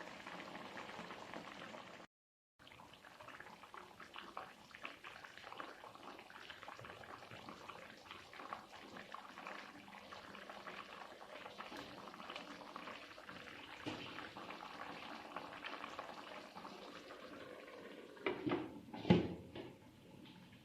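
Liquid simmering in a pan, a steady crackle of small bubbles. It cuts out briefly about two seconds in, and there are a couple of louder knocks near the end.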